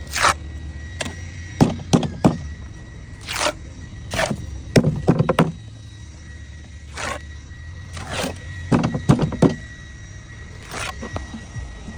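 Irregular thunks and scrapes of tools working concrete, about a dozen strokes at uneven intervals, some dragging on for half a second, over a low rumble and a faint steady high tone.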